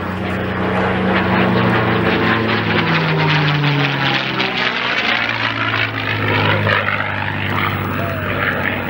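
Propeller-driven warbird's piston engine passing low overhead, its pitch dropping as it goes by about three to four seconds in, with the whistle of the cooler under its fuselage cutting through the air.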